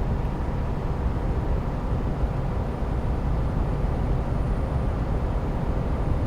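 Steady low engine and road rumble heard from inside a semi truck's cab while driving.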